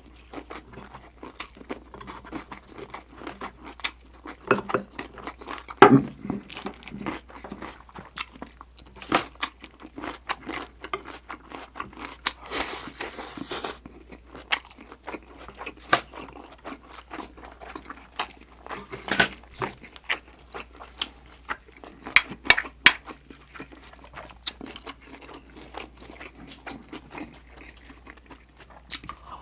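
Close-up chewing and crunching of Korean rice-table food (stir-fried pork with aged kimchi and side dishes), a steady run of short wet clicks and crunches, with a longer noisy stretch about 12 to 14 seconds in.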